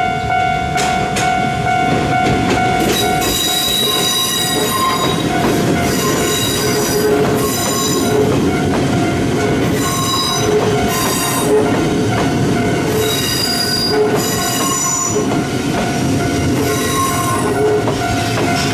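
Ichibata Electric Railway train running past on the rails, with a loud rumbling roll and a string of short, high-pitched wheel squeals through most of the pass.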